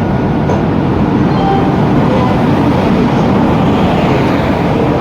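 A train running on the rails: a loud, steady rumble of wheels and running gear.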